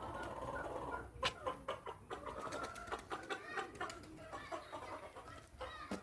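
A flock of crested chickens clucking, with many short calls overlapping one another; the birds are noisy.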